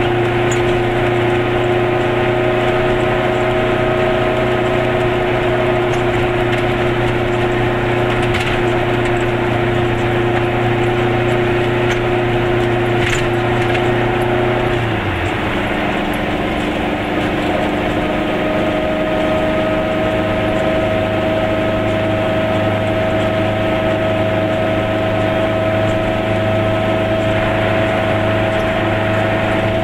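Interior drone of a Goggomobil's small air-cooled two-stroke twin engine while driving, with a raspy, buzzy note. About halfway through, the revs drop sharply and then slowly climb again.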